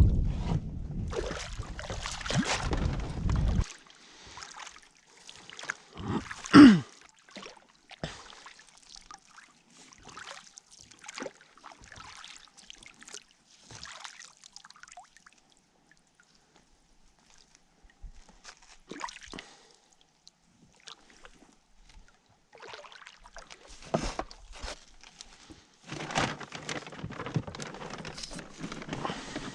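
Water trickling and sloshing with scattered small knocks around a small boat while a fishing net is handled, with one loud short knock about six and a half seconds in. Wind rumbles on the microphone at the start and again near the end.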